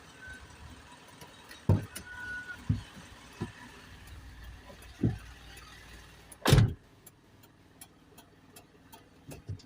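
Low rumble of a running vehicle, broken by a handful of sharp knocks and thumps, the loudest about six and a half seconds in.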